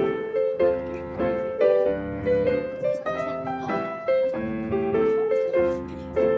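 Background piano music: a repeating pattern of struck notes at a moderate pace.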